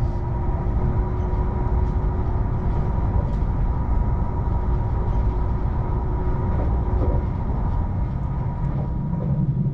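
Passenger train running along the line, a steady rumble with a faint constant hum over it and a few light ticks. Just before the end the rumble turns deeper and heavier.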